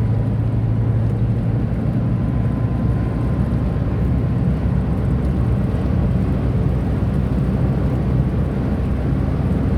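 Cabin noise of a Tata Nano driving at a steady speed: the steady low hum of its small two-cylinder engine under an even rush of tyre and road noise.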